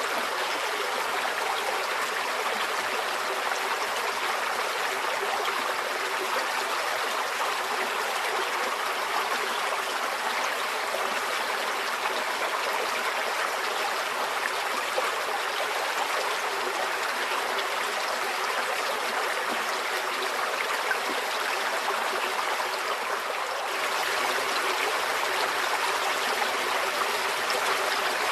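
A stream flowing: a steady rush and trickle of water, which steps up a little in loudness about five seconds before the end.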